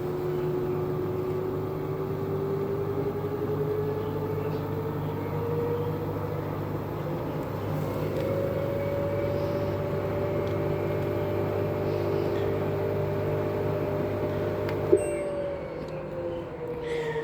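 LG washing machine's motor whining as the drum spins up in test mode, the whine rising in pitch and then holding steady over a low hum. About fifteen seconds in there is a click, the hum cuts off and the whine begins to fall as the drum coasts down.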